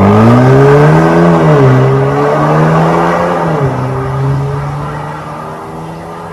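Alfa Romeo Tonale's turbocharged four-cylinder running through an MS-R valved cat-back exhaust under acceleration. The exhaust note rises, then drops in pitch twice at upshifts, growing fainter.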